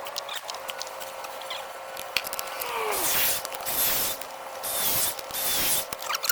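Hand tools working on a copper water pipe during a burst-pipe repair: scattered clicks and metallic ratcheting, then from about halfway in several rasping, hissy strokes that cut off abruptly.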